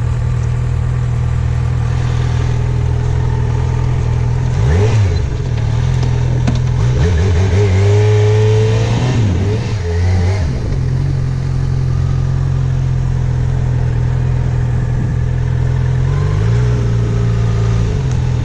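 Yamaha FZ6R motorcycle's inline-four engine running at idle, revving up and dropping back three times: about five seconds in, again between about seven and ten seconds, and briefly near the end.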